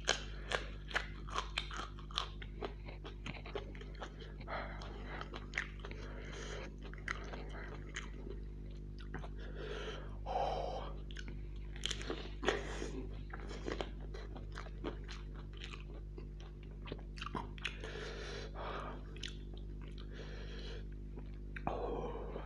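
A person eating a raw green chilli: sharp, crisp crunches as it is bitten and chewed in the first several seconds, then softer, wetter chewing.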